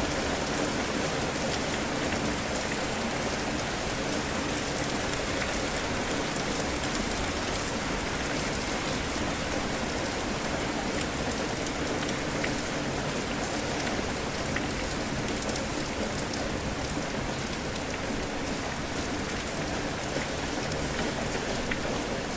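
Steady rain falling on a surface, an even hiss with small drop patters throughout.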